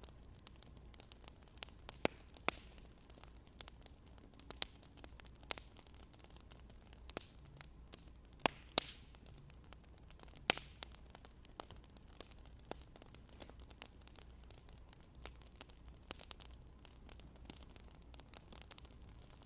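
Wood fire crackling: irregular sharp pops and snaps at uneven intervals over a faint steady low hum.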